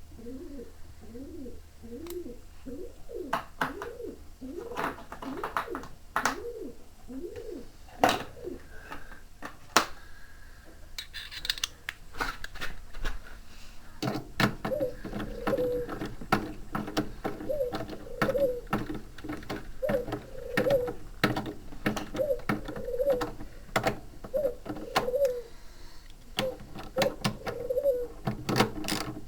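Ratchet spanner clicking in quick strokes as bolts on a washing machine tub are done up, thickening into dense clicking about halfway through. A rhythmic squeaking tone rises and falls alongside.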